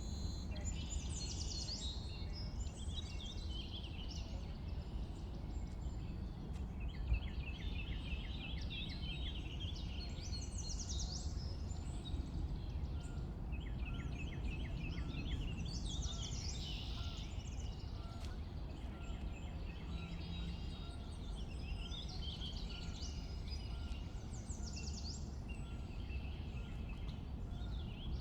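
Several songbirds singing, with phrases and rapid trills repeating every few seconds, over a steady low background rumble.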